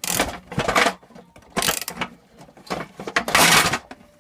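A steel gear puller being tightened against a seized pulley, its forcing-screw thread skipping in about five short, harsh bursts: the thread is slipping rather than pulling the pulley off the crankshaft.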